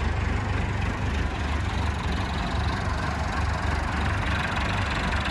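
Tractor diesel engine idling steadily with a low, even rumble.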